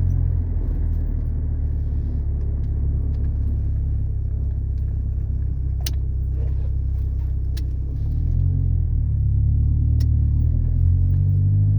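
Ford Ranger pickup's engine running with a steady low rumble, getting a little louder and changing pitch about eight seconds in.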